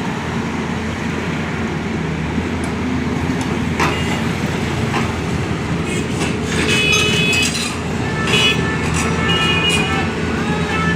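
A heavy vehicle engine runs steadily amid road traffic noise, a constant low hum. In the second half, short higher-pitched tones come and go over it.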